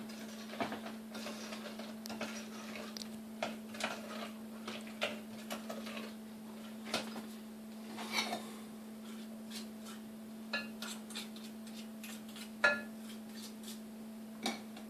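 Spoon clinking and scraping against a glass Pyrex bowl as the hot peanut-brittle mixture is stirred, in scattered knocks, over a steady low hum.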